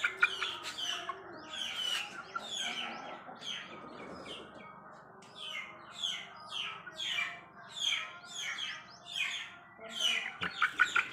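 Aseel chicks peeping: a steady run of short, high cheeps, each falling in pitch, about two a second.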